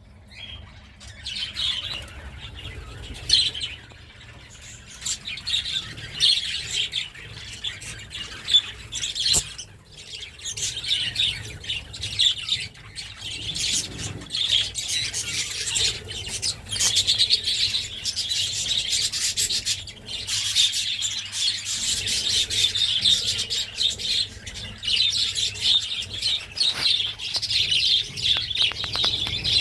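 Budgerigars chirping and chattering continuously, high and busy, with a few sharp taps among the calls.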